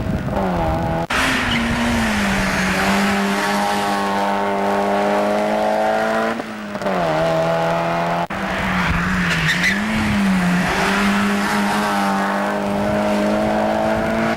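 Mazda MX-5 race car's four-cylinder engine running hard at high revs. The revs drop and climb again twice as it shifts up a gear. Tyres squeal briefly through a corner in the second half.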